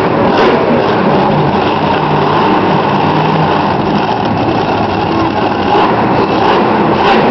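Monster truck engines running loud, with a low engine hum that swells briefly between about one and a half and three and a half seconds in, over a dense, steady din.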